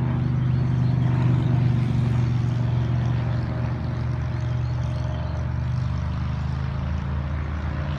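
A motor running steadily with a low, even hum, unchanging throughout.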